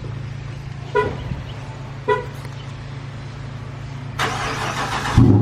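Two short car-horn chirps, then about a second of rushing noise and, near the end, the 2018 Dodge Charger R/T's 5.7-litre HEMI V8 firing up on a cold start, suddenly loud through Super 10 mufflers with the resonator deleted.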